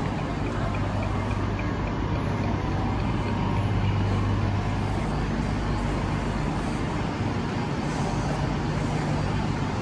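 Eurostar train noise: a steady low hum over an even rumble.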